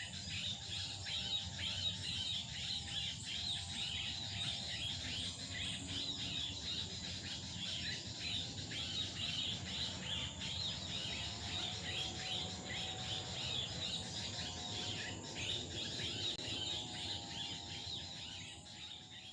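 Forest ambience: insects shrilling steadily under a dense chorus of small birds chirping, with some held whistled notes, fading out at the end.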